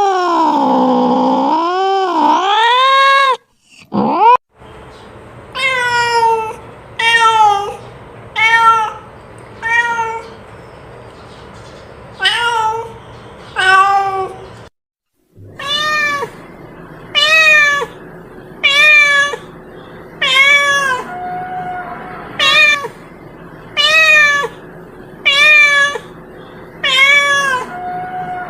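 Domestic cat meowing: first a long drawn-out yowl that wavers down and up in pitch, then a string of short meows about one a second. The sound cuts to dead silence twice, briefly.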